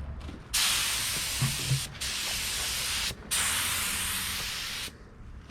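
Compressed-air paint spray gun spraying in three bursts of about one to one and a half seconds each, with short breaks as the trigger is let off.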